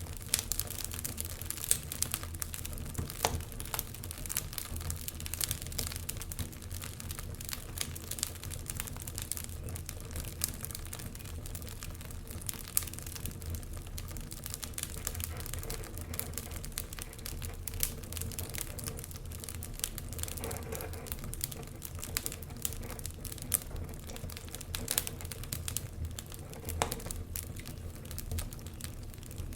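Wood fire crackling in a fireplace: irregular snaps and pops, a few sharper ones standing out, over a steady low rumble.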